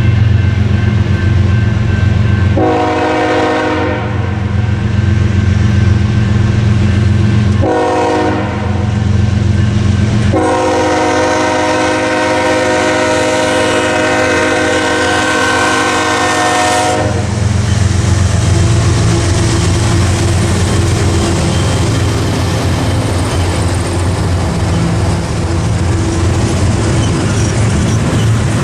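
Diesel locomotive horn sounding three blasts over the running engine: a short one, a shorter one, then a long one held for several seconds. The freight train then keeps rolling past with steady wheel noise on the rails.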